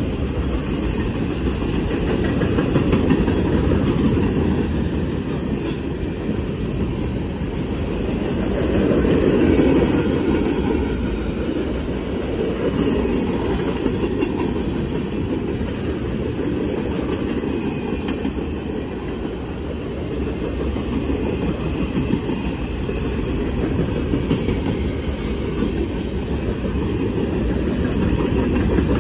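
Freight cars of a mixed freight train rolling past on the rails: a steady rumble of boxcar and covered-hopper wheels on the track, swelling slightly about a third of the way in.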